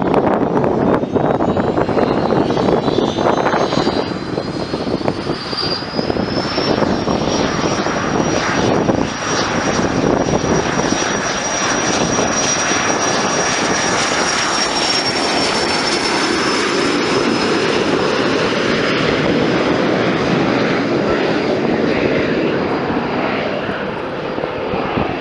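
Airplane engine running loudly at close range, with a high whine that climbs in pitch over the first few seconds and then holds steady. Wind is buffeting the microphone.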